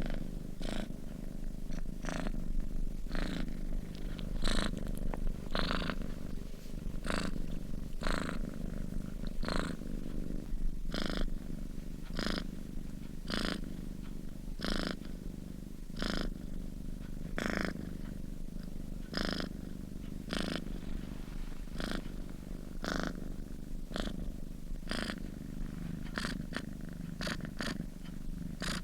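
Domestic cat purring steadily in its sleep: a continuous low rumble, with a breathy rasp about every one and a half seconds in time with its breathing.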